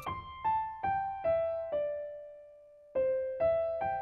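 Background piano music: a slow melody of single notes stepping downward, a brief pause, then the notes resume.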